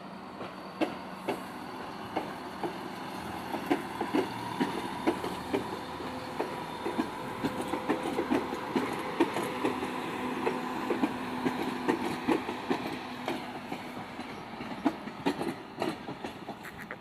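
ScotRail Class 170 Turbostar diesel multiple unit passing slowly over pointwork: its wheels clack over rail joints and crossings in an irregular run of sharp clicks, over the steady drone and faint whine of its running gear. The clicking is densest through the middle and thins out near the end.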